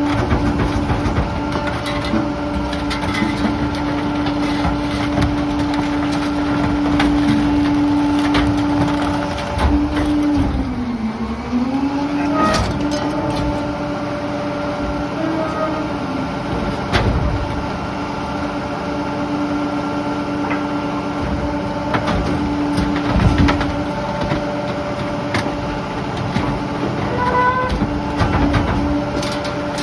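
Garbage truck engine running at a steady raised speed, its pitch sagging and recovering about ten seconds in, with scattered knocks and clunks of debris.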